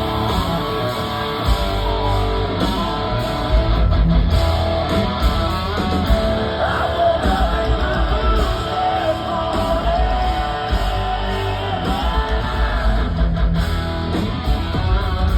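Live rock-country band playing loud, with heavy electric guitars over bass and drums.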